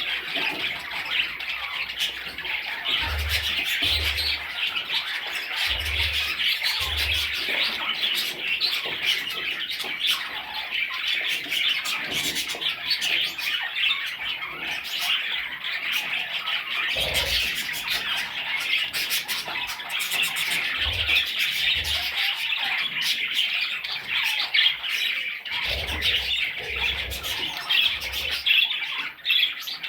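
Many young budgerigars chirping and squawking at once in a continuous high-pitched chatter, with a few short low thumps in between.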